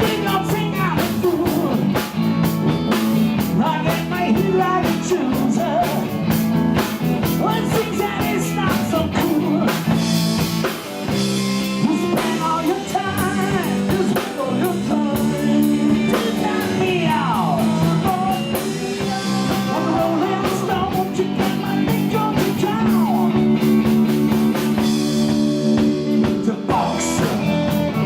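Blues-rock band playing live: electric guitar with bending notes over a drum kit.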